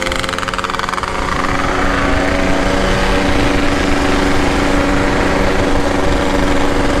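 Two-stroke motorcycle engine running on the move, its pitch rising over the first couple of seconds and then holding steady, with a low wind rumble underneath.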